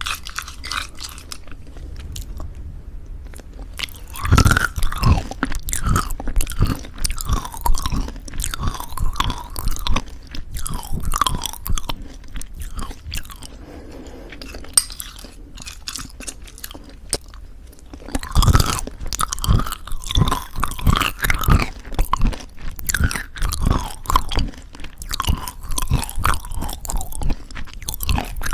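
Close-miked chewing of crunchy homemade granola in thick yogurt: crisp crunches in two bouts, each starting with a loud bite, about four seconds in and again past the halfway point.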